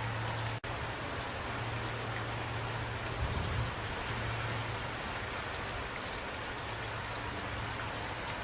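Steady rain falling, an even pattering hiss with a low hum underneath. The sound drops out for an instant about half a second in, like a splice in the recording.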